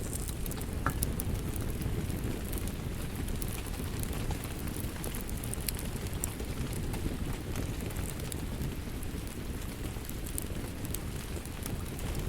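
Steady rain with a crackling wood fire, many small sharp pops and crackles scattered over a low, even rumble.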